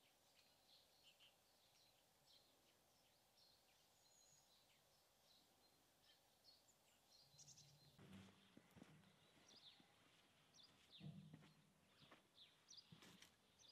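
Faint chirping of small wild birds. From about halfway through, a few soft knocks and rustles join in.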